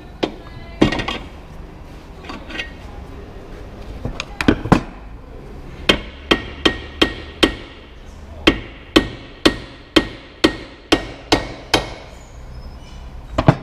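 A hammer striking metal with a ringing note, during a front wheel bearing replacement. A few single blows come first, then two runs of steady blows at two to three a second, and one last blow near the end.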